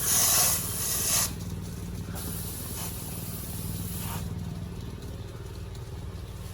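Insecticide duster blowing dust into a honey bee nest in a wall: two hissing puffs, the first about a second long, the second about two seconds, over a steady low hum.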